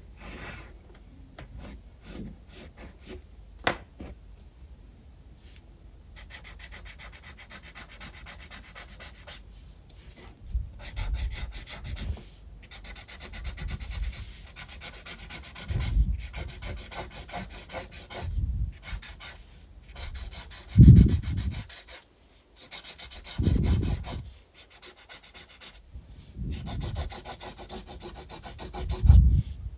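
Graphite pencil shading on sketchbook paper in quick back-and-forth strokes, a rapid scratchy rubbing. It starts about six seconds in and stops for short pauses, with a few soft low thumps.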